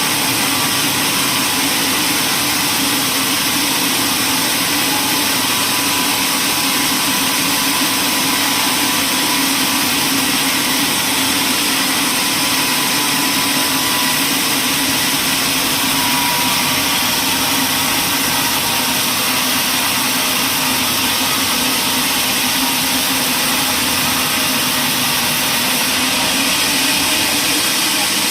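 Sawmill machinery running steadily: a constant engine-like hum under a wide, even hiss, with no cuts or starts and stops.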